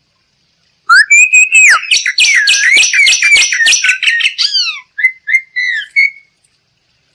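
Bali myna singing: after a moment of silence, a loud rush of rapid whistled and harsh notes with sweeping glides for about four seconds, followed by a few short, separate whistled notes.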